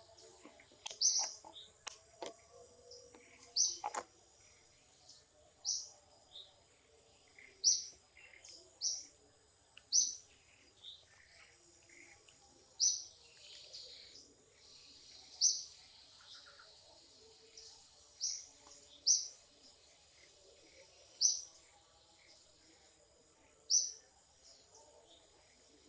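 A bird repeating a short, high chirp every one to three seconds, over a faint steady high-pitched tone, with a few light clicks in the first few seconds.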